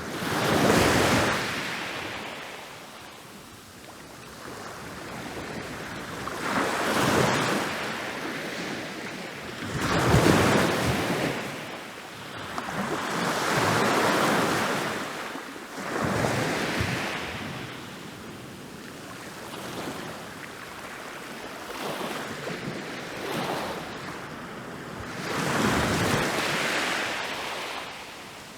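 Ocean waves rolling in and crashing on a beach: a rushing surf noise that swells and ebbs in about six surges, each building, breaking and draining away over a few seconds.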